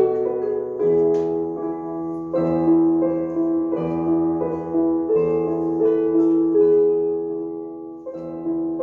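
Live instrumental music: a slow melody of held, changing notes over sustained chords.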